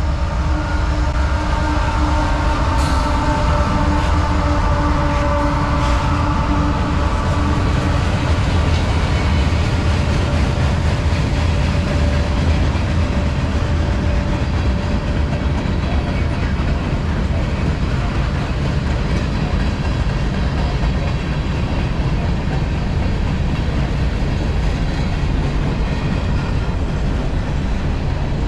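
CSX manifest freight train passing close by: a loud, steady rumble of wheels on rail. Some pitched whines run through roughly the first half, and there are two sharp metallic clanks about 3 and 6 seconds in.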